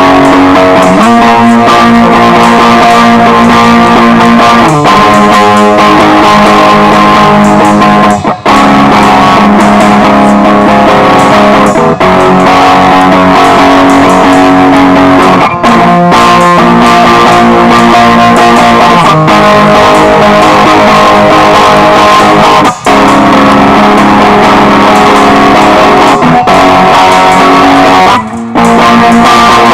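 Instrumental band music led by strummed electric guitar over bass, loud and steady, with a few brief breaks between phrases.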